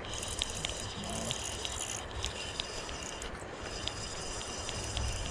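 Fishing reel being wound in with a smallmouth bass on the line: irregular light clicking, several ticks a second, over steady background noise.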